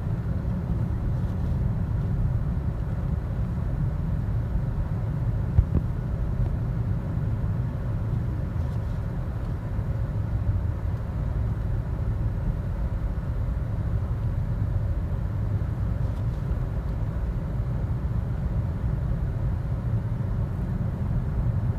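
Steady low road rumble inside a moving car's cabin: Michelin CrossClimate 2 tyres rolling on a snowy highway, with the engine underneath. A single sharp click comes about five and a half seconds in.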